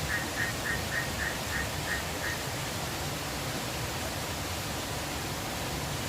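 An animal calling a quick run of about nine short, identical notes, roughly three a second, which stops a little over two seconds in. Steady rushing river water runs under it throughout.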